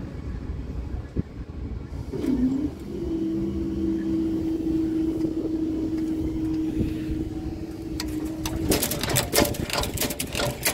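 Level crossing barrier machinery running with a steady motor whine. The whine dips in pitch as it starts, holds level for about six seconds, then stops. A quick run of clicks and knocks follows near the end.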